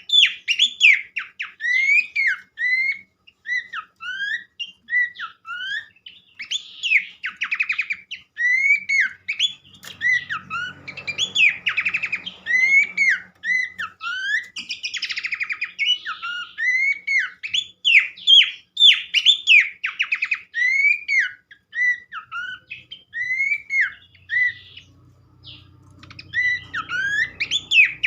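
Pelanduk semak (Horsfield's babbler) song played as a lure recording: a dense run of quick chirps, sweeping whistled notes and rattling trills with hardly a pause.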